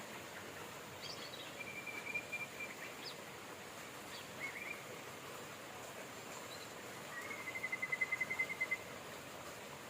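Steady rain hiss with songbirds calling: scattered short chirps and two rapid trills on one pitch, one about two seconds in and a louder, longer one near the end.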